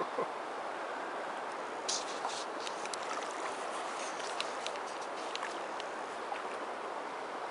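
The Snake River rushing steadily, with scattered short high ticks over the flow.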